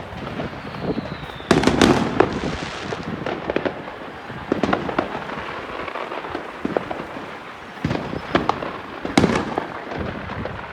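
Neighborhood fireworks and firecrackers going off all around: a steady crackle of sharp pops, with two loud bangs, one about a second and a half in and one near the end. A faint falling whistle comes just before the first bang.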